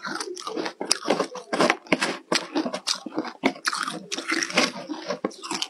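A person chewing and crunching mouthfuls of ice topped with a green paste, a rapid irregular crackle of bites without let-up.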